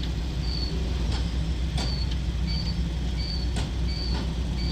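An engine running steadily, with a short high chirp repeating about every 0.7 seconds and a few sharp clicks.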